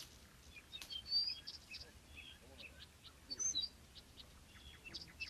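Birds chirping: short, high calls scattered throughout, fairly faint.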